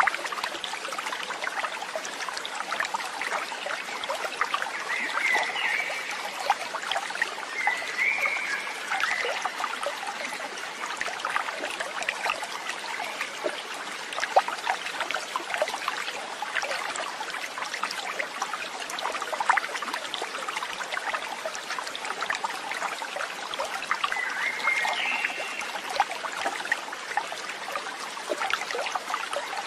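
Steady trickling and babbling water, like a small stream, with a few short high calls from an animal about five, eight and twenty-five seconds in.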